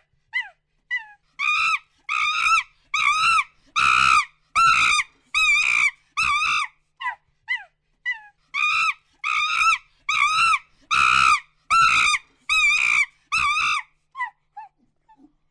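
A primate calling in two bouts. Short falling notes build into loud, harsh, evenly repeated calls, about one and a half a second, then fall back to short falling notes near the end.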